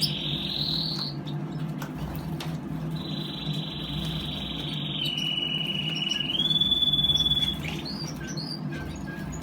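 Domestic canary singing long rolling trills, each held at one pitch; the longest steps down and then back up in pitch midway. A steady low hum runs underneath.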